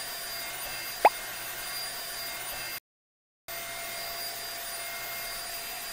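Vacuum cleaner sound effect: a steady whirring hiss with a faint high whine, cut by a short rising 'bloop' pop about a second in. The sound drops out completely for about half a second near the middle.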